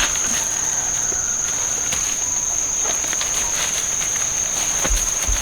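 Insects keeping up one steady, unbroken high-pitched drone, with scattered light clicks and a couple of dull bumps near the end.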